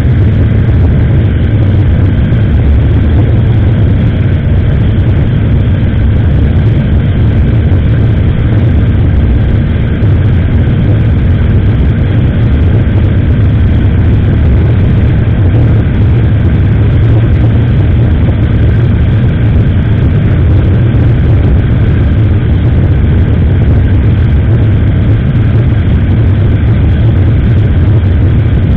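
Steady, loud low rumble of a motorcycle underway: engine and road noise picked up by an SJCAM action camera's microphone, with no change in speed.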